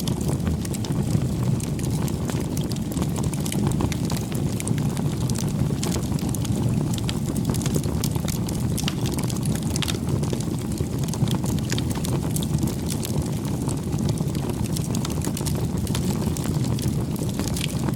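Wood campfire burning, with a steady low rumble and many small irregular crackles and pops from the wood.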